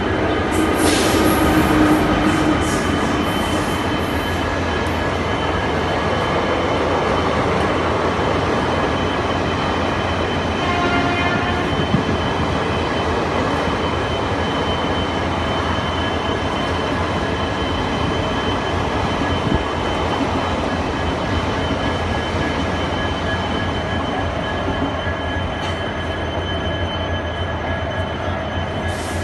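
Train running through a railway station: a steady rumble of wheels on track, with high-pitched wheel squeals in the first few seconds.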